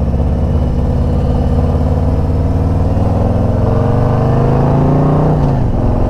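Harley-Davidson V-twin motorcycle engine running under way, its pitch climbing steadily for a few seconds as it accelerates, then dropping abruptly about five seconds in.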